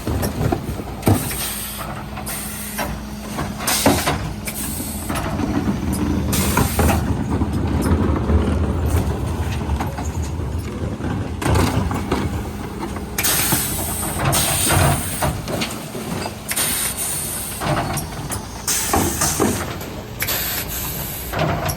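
Mercedes Econic refuse truck at work: its engine runs with a steady drone, broken again and again by short hisses of air and clanks.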